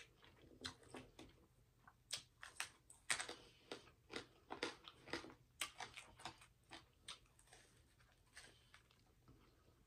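A person quietly chewing and eating food into a close microphone, with many short, irregular wet mouth clicks and smacks.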